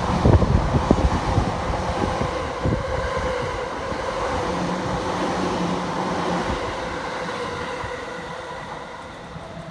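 JR East E233 series electric train passing through at speed without stopping: wheels clatter over the rail joints under a steady whine. The sound fades as the last cars go by.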